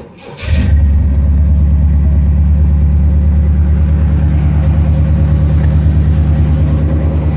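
1982 Chevrolet Corvette's 350 V8, fed by a Holley four-barrel carburetor, firing up about half a second in on a cold start and then idling steadily with an even, pulsing rumble, its choke still on.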